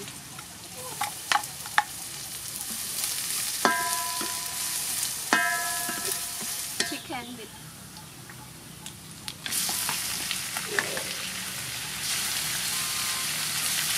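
Chopped lemongrass and garlic sizzling in hot oil in a metal wok while being stirred with a wooden spatula, with scattered scrapes and knocks and two metallic rings from the wok about four and five seconds in. At about nine and a half seconds the sizzle jumps louder and denser as raw chicken pieces go into the hot oil.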